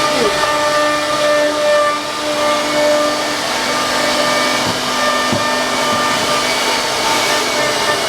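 Wood CNC router running, its spindle motor whining steadily over a loud hiss of cutting.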